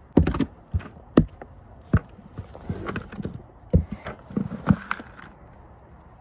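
Knocks and thuds of garden pots being handled, with scraping and rustling of potting soil, about six irregular knocks over five seconds, during repotting of a tomato plant.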